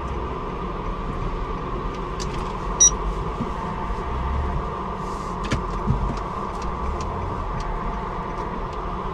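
Steady engine and road noise of a moving car heard from inside the cabin, with one sharp brief click about three seconds in and a few fainter ticks later.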